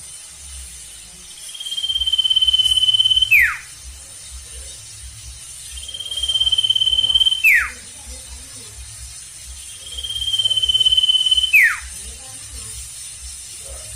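Sirtu bird calling three times, about four seconds apart. Each call is a high whistle held for about two seconds, growing louder, and ending in a quick falling slide.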